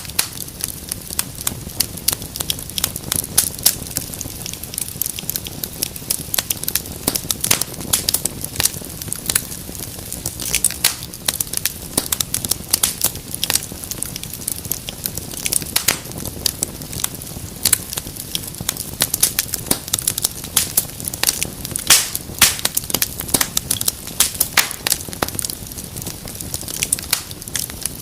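Wood fire crackling in a fireplace: a steady stream of sharp pops and snaps over a low, even rumble of flame.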